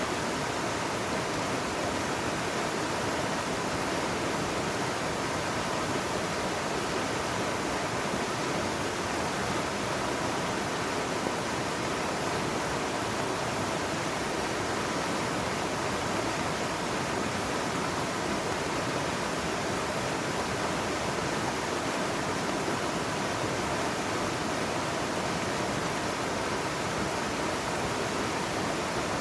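Mountain valley stream rushing steadily, an even hiss of flowing water with no change throughout.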